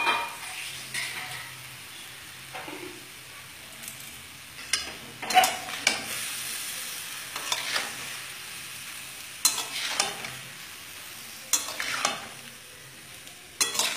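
Vegetables and half-boiled dried peas frying in mustard oil in a kadai, a steady sizzle throughout. A spatula scrapes and knocks against the pan every second or two as they are stirred.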